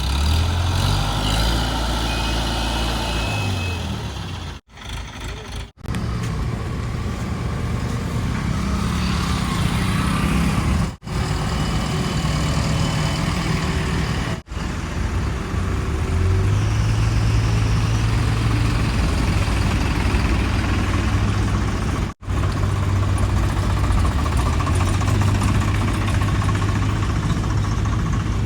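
Heavy diesel engines of a backhoe loader, tractors and tipper trucks running, their pitch rising and falling as they are revved under load, broken by several abrupt cuts.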